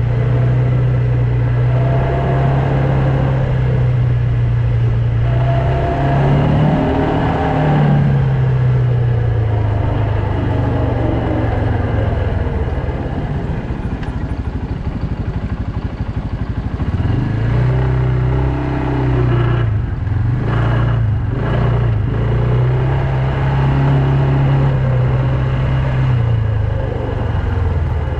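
Quad bike engine running under way, holding a steady note, with the revs rising and falling briefly about a quarter of the way in and changing again a little past the middle.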